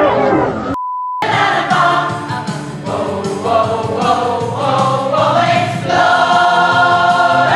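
A choir singing, with a short steady beep tone about a second in.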